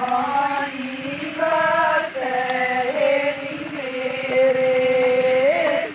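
Women singing a Gujar wedding folk song together, drawing out long held notes.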